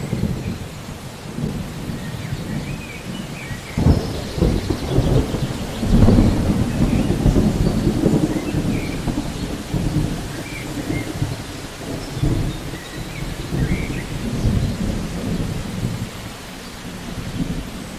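Thunder rumbling in long rolls over steady rain, swelling loudest about four and six seconds in.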